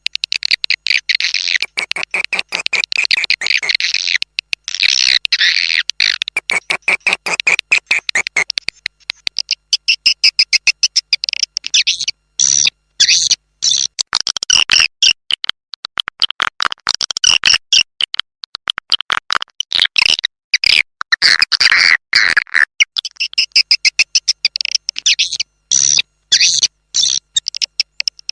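Recorded swiftlet lure call: edible-nest swiftlets' rapid, high-pitched chirping and twittering, many chirps a second in runs broken by short pauses. It is the kind of call track played to draw swiftlets into a nesting house.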